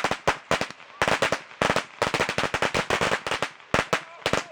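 Firecrackers going off in a rapid, irregular string of sharp pops.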